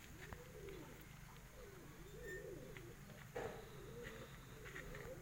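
Doves cooing: a steady run of soft, low, rounded coos, one after another.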